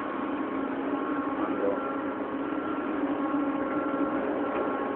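CNC lathe running, a steady machine hum with higher steady whining tones above it.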